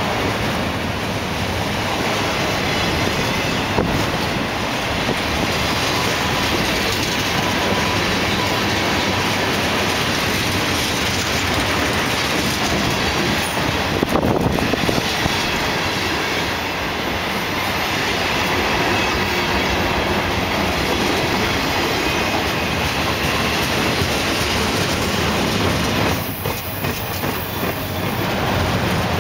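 Loaded freight train cars, mostly autoracks, rolling past close by: a steady noise of steel wheels running on the rails, briefly quieter near the end.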